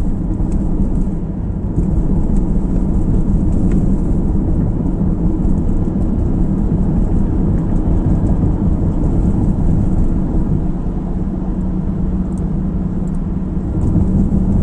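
Steady road noise of a car driving, heard from inside the cabin: a low engine and tyre rumble with a slight dip in level about a second and a half in.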